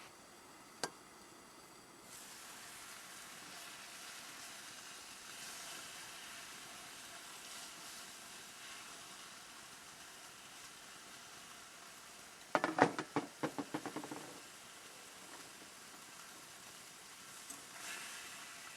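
A faint steady sizzling hiss that starts about two seconds in, with a quick run of clicks and clatters, like metal cookware being handled, around the middle.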